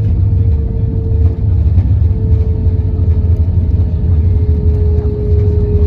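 Cabin noise inside an Airbus A321 airliner during its arrival: a steady deep rumble of engines and airflow, with one steady engine tone that drops slightly in pitch about two seconds in.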